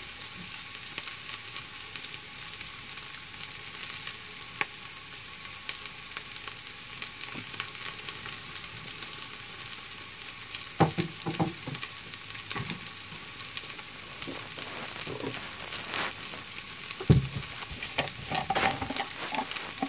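Carrots and turkey frying in oil in a stainless steel pot, giving a steady sizzle. In the second half a few sharp clicks and knocks sound over it, the loudest a dull knock near the end.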